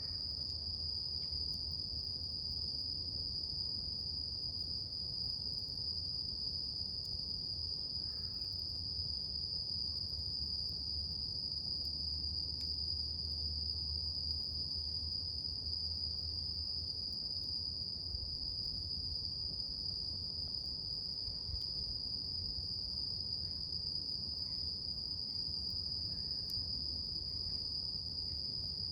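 A steady, unbroken high-pitched insect trill, with a low rumble underneath and a few faint crackles from the wood fire.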